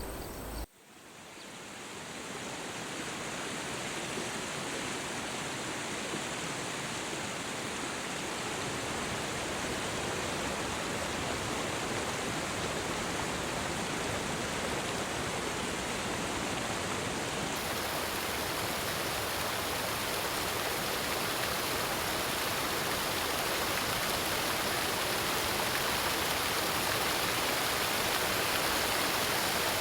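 Steady rushing of water, an even hiss that fades in about a second in and slowly grows louder; the hiss turns brighter just past halfway.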